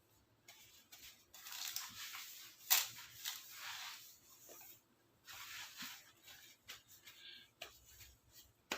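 Faint rustling and handling noise in a few bursts, with a sharp click about a third of the way in and another at the end.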